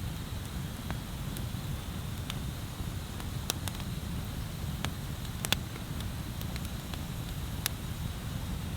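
Wood bonfire crackling, with scattered sharp pops of burning wood, one louder pop about five and a half seconds in, over a steady low rumble.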